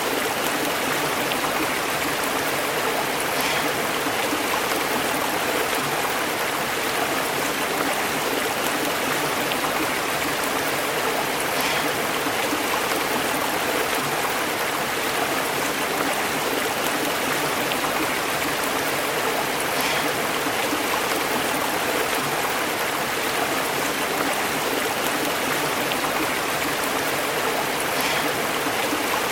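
Stream flowing steadily, the water bubbling and burbling over rocks.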